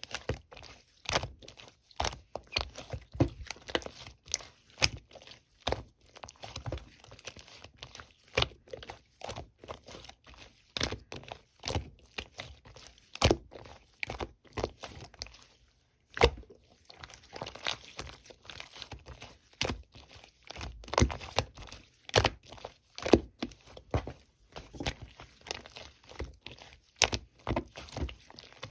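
Purple slime being squeezed, stretched and pressed by hand, giving a run of irregular crackling pops and clicks, several a second, with a brief pause partway through.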